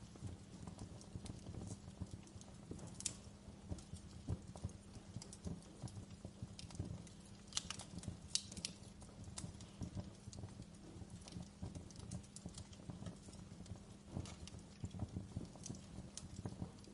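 Campfire crackling: a dense, irregular run of small crackles over a low steady rumble, with a few sharper pops.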